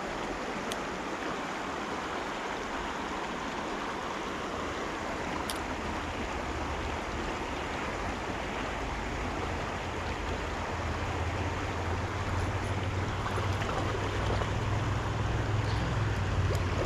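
Rushing water of the Cimarron River running steadily. A low rumble joins it and builds from about halfway through.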